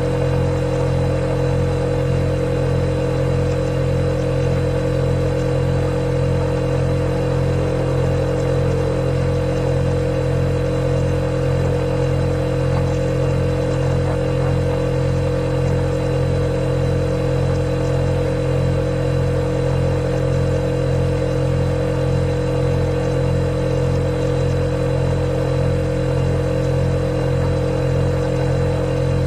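Refrigerator running: a steady, unchanging low hum with a faint high whine above it.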